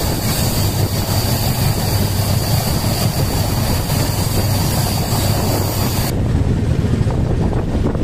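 Steady rumble of a passenger train running at speed, heard from its open doorway with wind noise. About six seconds in, the high hiss drops away suddenly, leaving the low rumble.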